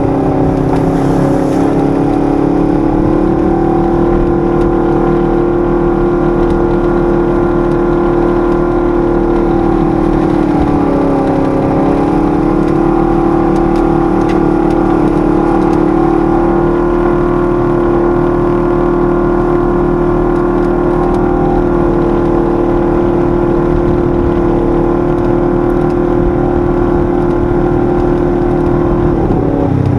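Side-by-side UTV engine running steadily under throttle, with a brief dip in pitch about eleven seconds in before picking back up, and another drop in pitch near the end.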